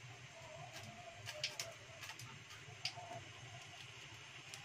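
Faint low hum with a bird cooing softly in the background, and a few sharp clicks, the loudest about one and a half seconds in and just before three seconds.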